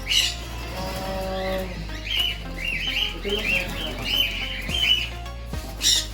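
Pet birds in an aviary calling: a quick run of short, high chirps in the middle, and one loud harsh squawk near the end.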